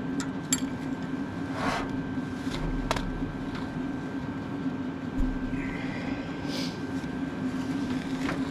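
A steady mechanical hum runs throughout, with a few sharp clicks and brief scraping sounds of hand tools and parts being handled.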